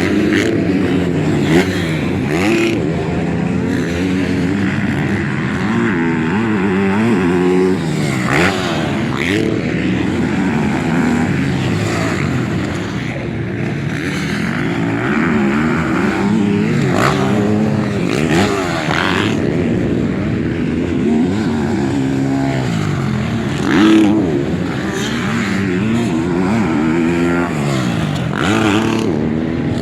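Several motocross bikes racing, their engine notes rising and falling and overlapping as they rev up and back off. One bike passes louder about three-quarters of the way through.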